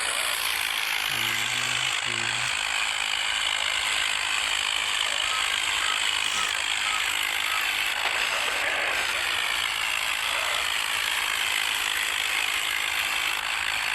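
Swaraj 855 and John Deere 5210 tractor diesel engines running hard under heavy load in a tug-of-war pull, a steady mechanical din.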